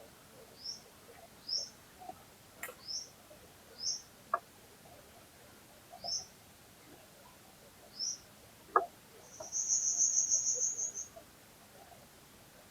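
Songbird calling in short, high chirps about once a second, then a rapid high trill lasting about a second and a half about two-thirds of the way through. Beneath it a faint flowing stream with a few sharp plinks of water.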